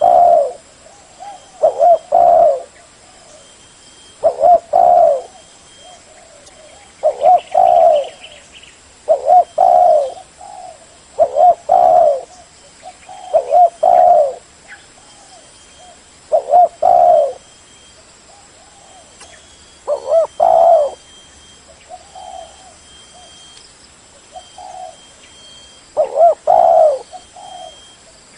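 Spotted dove cooing: short throaty phrases repeated every two to three seconds, with a longer spell of only faint coos near the end.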